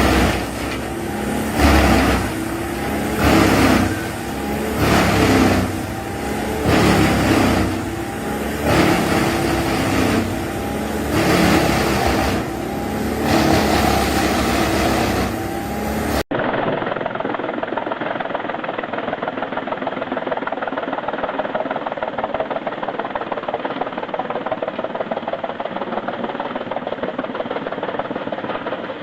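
Wood chipper machinery running, the sound swelling and easing in regular surges about every second and a half. About sixteen seconds in it cuts abruptly to a steadier, duller machine running with a rough, even rumble.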